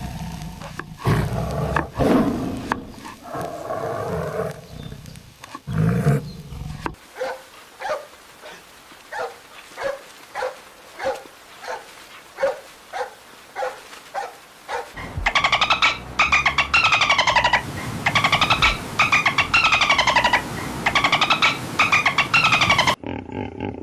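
A run of different animal calls: first a big cat's heavy roaring growl, then a string of short, quick calls about twice a second from about seven seconds in, then from about halfway on, loud repeated falling calls.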